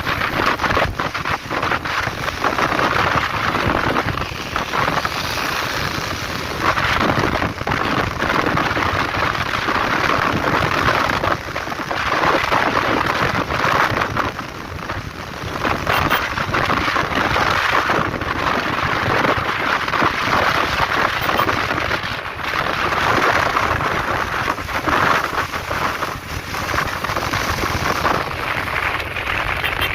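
Loud rushing wind and rain noise against the microphone of a Bajaj Pulsar NS125 motorcycle riding at speed in the rain, rising and falling in gusts without a clear engine note.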